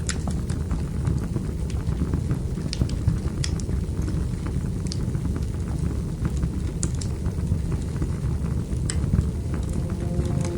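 Wood fire burning in a fireplace: a steady low rush of flames with sharp crackles and pops every second or two.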